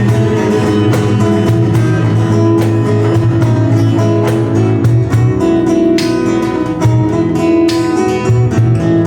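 Acoustic guitar strummed in a steady rhythm, playing an instrumental passage of a song without vocals.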